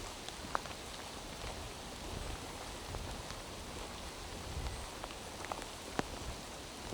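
Steady rain falling through forest, with a few sharp drips landing close by, the clearest about half a second in and near the end.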